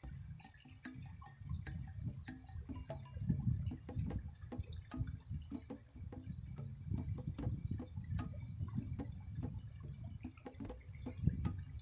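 Close, wet, irregular clicks and soft low thumps from a juicy fruit salad being handled.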